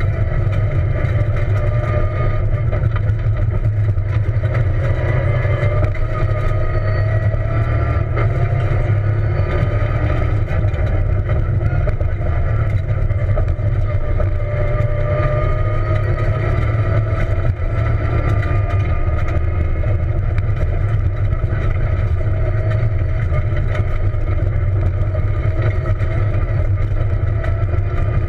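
Peugeot 207 rally car driving fast on a dirt stage, heard from inside the cabin. The engine note rises and falls with the revs over a steady low rumble from the dirt road.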